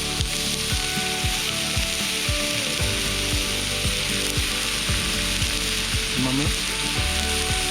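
Wood campfire burning: a steady hiss with frequent small crackles and pops.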